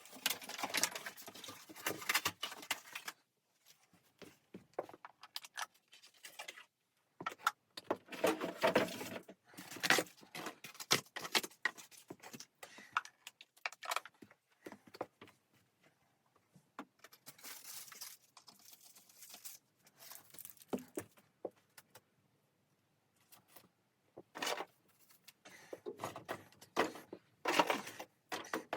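Irregular handling noises: clinks, rustles and knocks in bursts of a few seconds, with short pauses between them.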